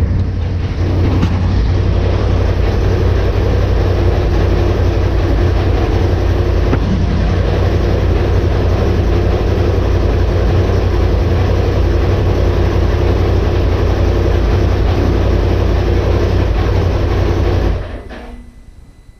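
A 2019 Polaris RZR XP Turbo's turbocharged twin-cylinder engine idles steadily just after a cold start in freezing weather. It is switched off near the end and dies away quickly.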